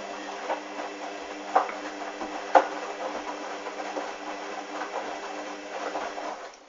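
Hoover washing machine drum turning in the wash: a steady motor hum with towels and sudsy water sloshing and a few knocks, the motor stopping near the end.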